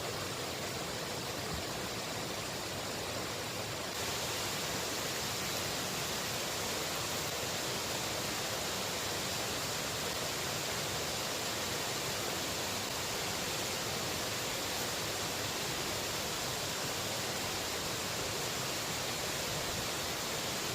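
Steady rushing of a waterfall and its river running high after heavy rain. It gets a little louder and brighter about four seconds in.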